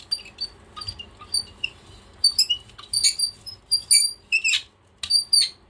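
Hand brayer squeaking as it is rolled back and forth over acrylic paint on a gel printing plate: a series of short, high squeaks in quick bursts, very squeaky.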